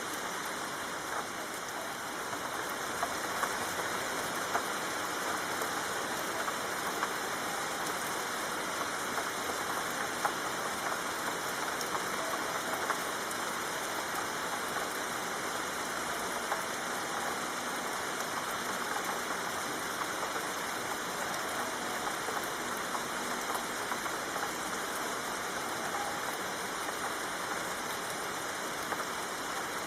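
Steady soft rain falling: an even hiss with scattered louder drops ticking.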